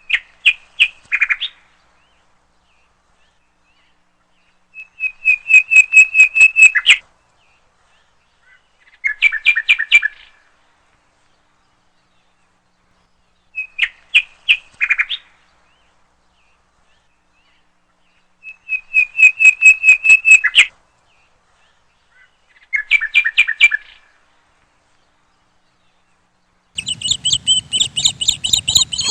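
A songbird singing short phrases of rapid, repeated chirping notes, each phrase one to two seconds long, separated by silences of a few seconds. Three kinds of phrase come back in the same order. Near the end a denser, continuous run of chirps starts over a low background rumble.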